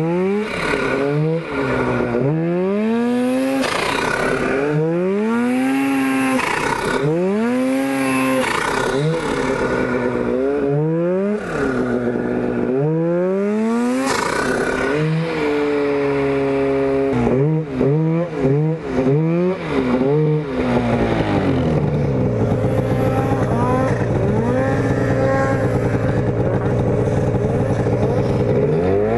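Turbocharged Polaris Pro RMK two-stroke snowmobile engine being throttled up and down again and again, each rev rising and falling over a couple of seconds. Past the middle come several short, quick throttle blips, then the engine settles into a steady, even run at a constant speed for the last several seconds.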